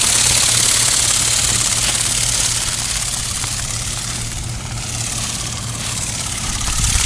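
Toy RC flapping-wing bird in flight: a steady buzz from its small motor and flapping wings, fading as it flies off and growing louder again near the end.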